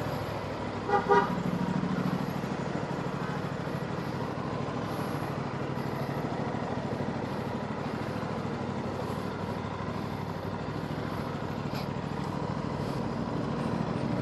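A vehicle horn gives a short double beep about a second in. After it the steady running of the Aprilia RS 457's parallel-twin engine continues under wind and road noise on the move.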